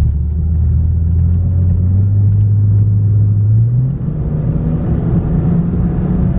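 BMW 328i's inline-six exhaust through a Magnaflow muffler, heard from inside the cabin: a low drone that rises in pitch as the car accelerates uphill under load, with a short dip about four seconds in before it steadies.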